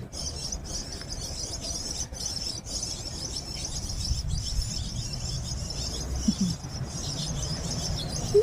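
European starling nestlings calling from the nest in a steady, high-pitched chorus of chirping, with a low rumble underneath.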